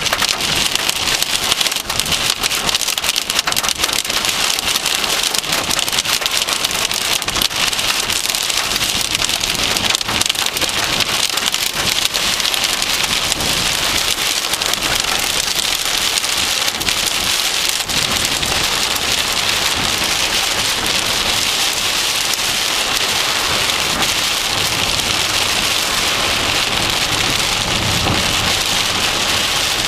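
Heavy rain mixed with pea-sized hail pelting a car, a dense, steady patter of small impacts.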